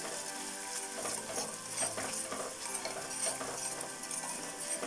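Thick soy-and-tomato sauce sizzling in hot oil in a stainless steel pan as it is sautéed, with a spoon stirring and scraping through it and light clicks against the pan.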